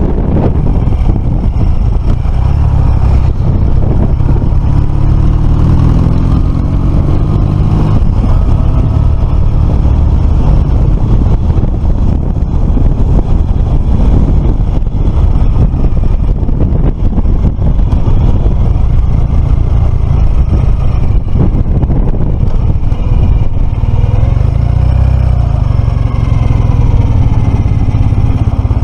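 Motorcycle engine running on the move under heavy wind rumble on the microphone, its note rising as it accelerates once early and again near the end.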